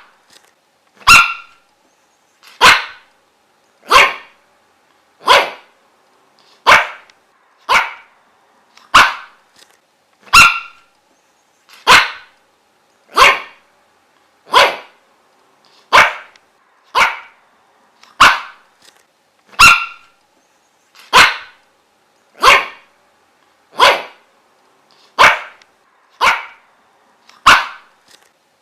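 A dog barking over and over in single, short barks, about one every second and a half, at a steady pace and an even loudness.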